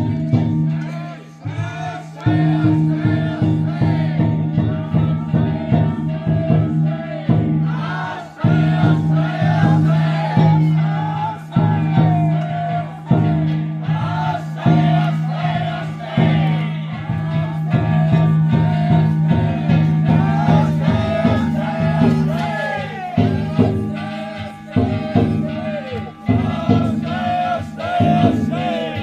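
Danjiri festival music: quick repeated drum and gong strokes under a wavering melody and steady held tones, with a crowd's voices joining in.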